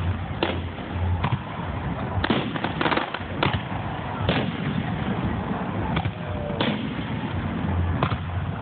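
Aerial fireworks shells bursting overhead: a string of sharp bangs, about ten, with a quick cluster of several together about three seconds in.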